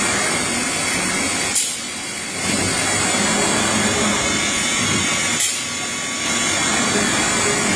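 Heavy-duty CNC router machining center running, a steady noisy whir. It drops away briefly twice, each drop opening with a short sharp click.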